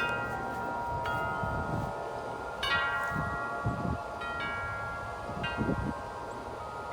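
Large tuned tubular wind chimes ringing in strong, gusty wind. About five clusters of strikes come a second or two apart, and each chord rings on into the next.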